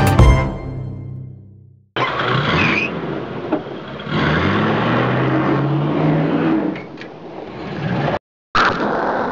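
Music fades out, then a car engine runs and accelerates, its pitch climbing, with a short break near the end.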